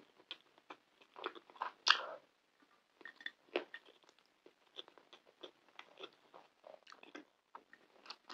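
Close-miked eating sounds: chewing and wet mouth clicks and smacks over a mouthful of saffron rice and pan kebab, irregular and quick, with one louder smack about two seconds in.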